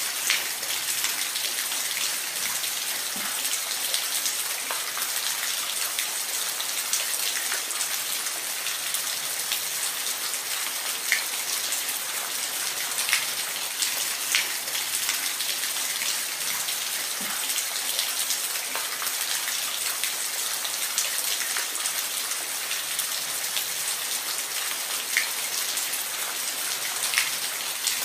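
Steady hiss of falling water from a waterfall, with scattered sharper splashes and drips standing out now and then.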